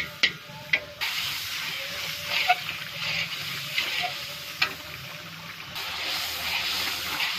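Masala sizzling and hissing in a large metal karahi as it is stirred with a long metal spatula, with a few sharp clicks and scrapes of the spatula on the pan. The hiss comes from the masala being fried (bhuna) until its water dries off, with steam rising from the pan.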